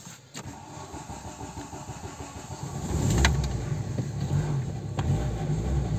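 Volkswagen Passat B3 being started from inside the cabin: the starter cranks for a couple of seconds, then the engine catches about three seconds in and settles into a steady idle, with a couple of sharp clicks.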